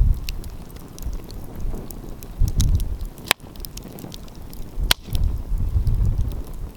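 Wood fire crackling with scattered small ticks and two sharp pops, one about a third of the way in and one about two-thirds in. Gusts of wind buffet the microphone with a low rumble.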